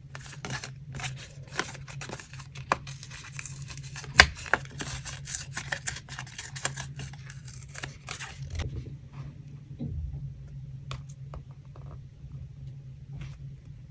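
Paper being torn and handled for collage: crackly tearing and rustling with sharp taps, the loudest about four seconds in, turning quieter with only scattered clicks for the last few seconds. A steady low hum sits underneath.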